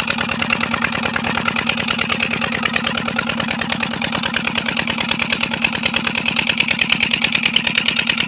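8 hp twin-flywheel diesel engine running steadily, driving a borewell water pump, with an even, rapid firing beat.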